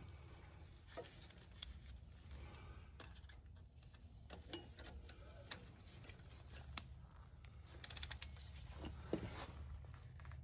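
Faint clicks and knocks of hand tools working on the engine while the injector is tightened down, with a short burst of rapid ratchet-wrench clicking about eight seconds in.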